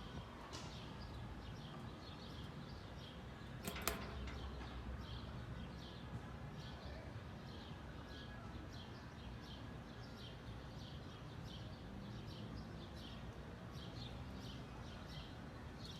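A bird chirping over and over, short high chirps about two a second over a low background rumble, with a single sharp knock about four seconds in.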